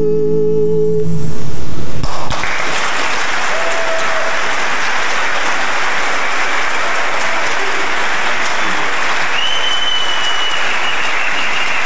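A barbershop quartet's held final chord cuts off about a second in, followed by audience applause that is loudest for a moment at first and then carries on steadily.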